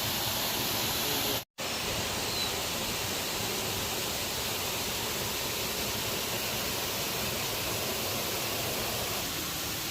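Steady rushing of a waterfall, a dense even hiss, broken by a brief moment of silence about a second and a half in.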